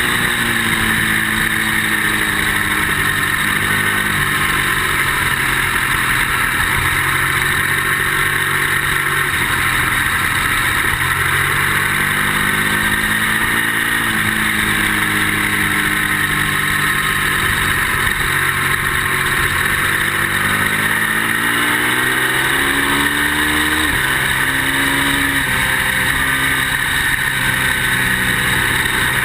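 Ducati V-twin motorcycle engine at speed on a racetrack, its pitch rising under acceleration and sinking for corners, with sudden breaks like gear changes about halfway through and again near the end. A steady wind rush runs under it.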